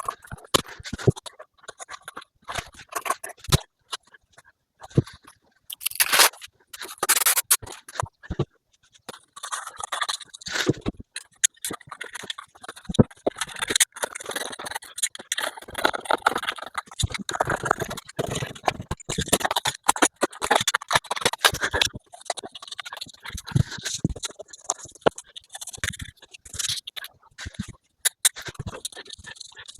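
Irregular scraping, rubbing and clicking noises with sharp ticks, in uneven bursts that are busiest through the middle.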